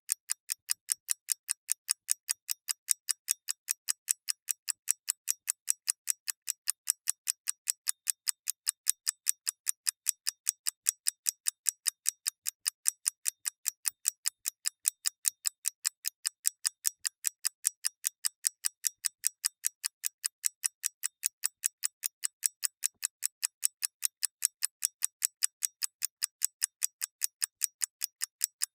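Clockwork ticking: quick, even, high clicks, about three a second, at a steady level throughout.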